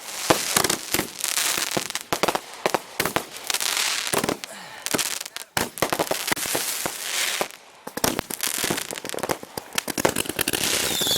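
Consumer multi-shot firework cakes going off in rapid succession: dense, irregular bangs and cracks with crackling, broken by two brief lulls. A falling whistle starts right at the end.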